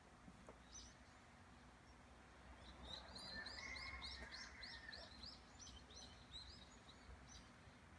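A small songbird singing a fast run of repeated high chirps, about three a second, starting about three seconds in and lasting several seconds.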